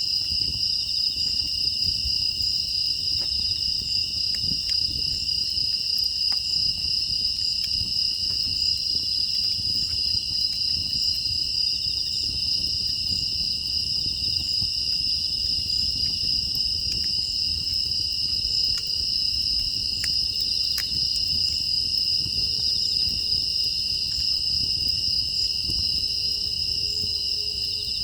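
Steady, unbroken chorus of crickets and other grass insects chirring at night, with faint scattered crackles from a wood fire burning in a firebox.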